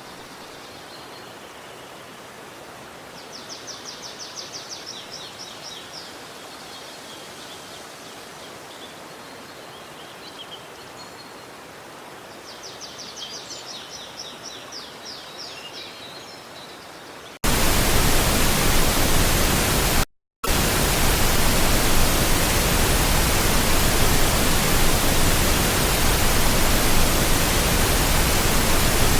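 Faint outdoor ambience with a bird singing a rapid high trill twice. About two-thirds of the way in it cuts abruptly to a loud, steady, even rushing noise, broken by a brief moment of silence shortly after.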